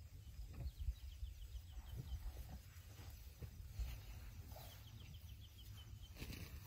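Quiet bush ambience: a bird calls twice with a quick run of short, evenly repeated chirps, over a low rumble and faint scattered rustles and clicks.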